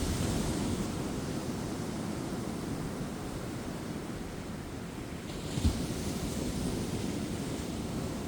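Ocean surf on a beach: a steady wash of breaking waves with a low rumble of wind on the microphone. One wave breaks louder about five and a half seconds in, starting with a brief low thump.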